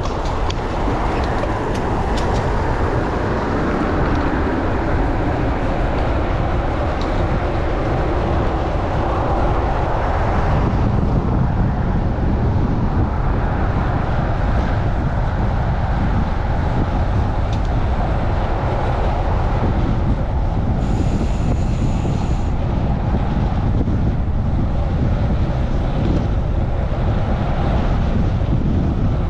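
Strong gusting wind buffeting the microphone of a camera on a moving bicycle, with city traffic noise underneath. The rumble eases somewhat about a third of the way through.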